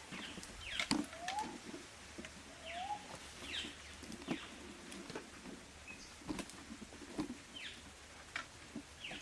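Birds calling: short chirps and rising whistles, about one every second or so, with scattered light clicks.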